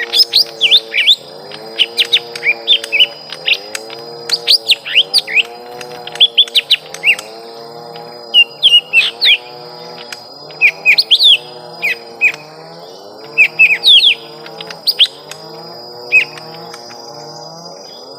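Young lesser green leafbirds (cucak ijo mini) giving sharp, rapid chirps and short up-and-down notes in irregular bursts: the calls of a fight between rival birds. A much quieter low pulse repeats about once a second underneath.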